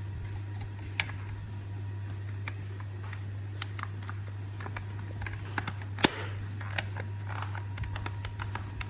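Light scattered clicks and taps of small hard parts being handled, with one sharper click about six seconds in, over a steady low hum.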